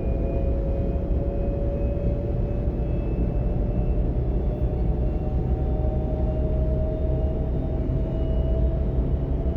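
A Class 425 electric multiple unit running, heard from inside the car. There is a steady low rumble of the running gear, with a thin electric whine from the traction drive that climbs slowly in pitch as the train gathers speed.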